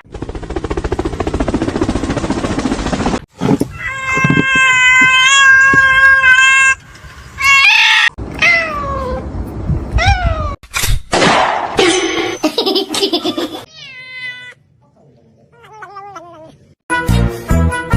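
Cats meowing across several quick clips: a long, drawn-out yowl held on one pitch, then a run of shorter meows that fall in pitch, after a few seconds of noise at the start. Music with a steady beat comes in near the end.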